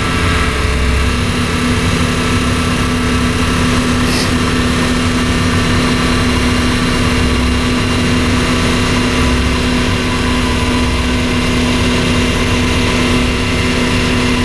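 1994 Chevrolet Impala SS's 5.7-litre LT1 V8 idling steadily just after a cold start in freezing weather.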